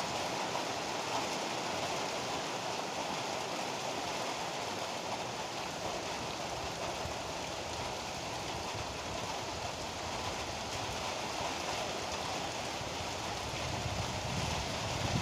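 Steady heavy rainfall, an even hiss of downpour, with a low rumble swelling in near the end.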